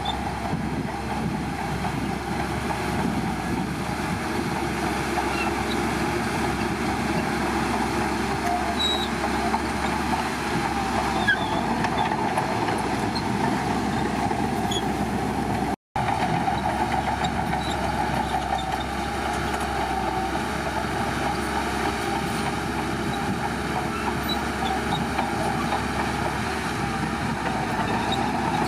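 Heavy diesel earthmoving machinery, most likely a Shantui bulldozer's engine, running steadily. About halfway through, the sound breaks off briefly to silence and then resumes.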